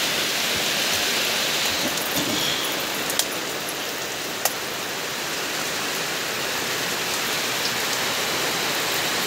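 Heavy rain falling steadily, a dense even hiss, with a few sharp ticks of drops, the clearest about four and a half seconds in.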